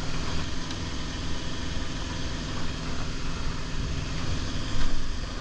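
A semi truck's diesel engine idling, a steady low drone.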